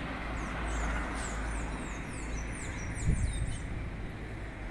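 A bird singing a quick run of high, falling whistled notes over steady city street noise, with a low thump about three seconds in.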